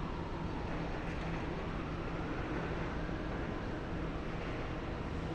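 Engine of a machine loading scrap metal, running steadily with a low hum and a faint whine that rises and falls.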